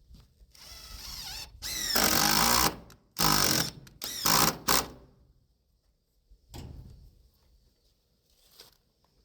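Cordless drill driving screws in four bursts, the motor whining up in pitch as it starts, the longest run about a second. Two fainter knocks follow later.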